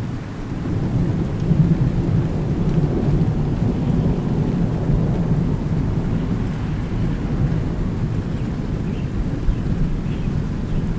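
Thunder rumbling over steady rain: a low roll swells about a second in and keeps rolling while the rain hisses on.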